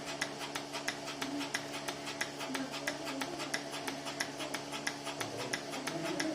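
Portable milking machine running: a steady mechanical hum from its vacuum pump, with the pulsator clicking evenly about three to four times a second.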